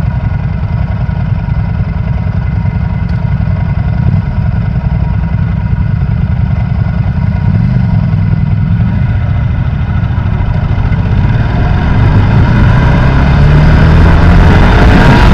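Sportbike engine running at road speed, heard from on the bike. Near the end it gets louder with the pitch climbing as the bike accelerates, and a rushing noise builds over it.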